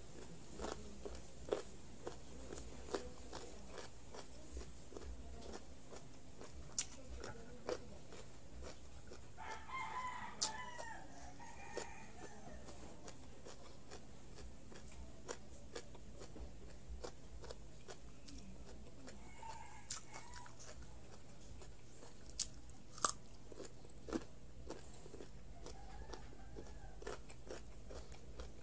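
Close-up chewing and crunching of raw carrot sticks: scattered crisp bites and crunches. A rooster crows in the background about ten seconds in.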